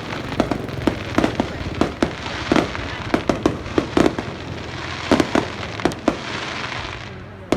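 Fireworks display: a rapid, irregular run of bangs from bursting aerial shells, several a second, over continuous crackling that fades near the end.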